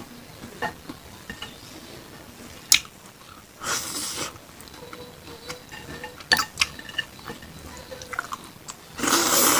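Close-miked eating sounds: scattered sharp clicks of tableware or skewers, and two louder noisy bursts of chewing, one near the middle and one near the end, as beef satay is eaten.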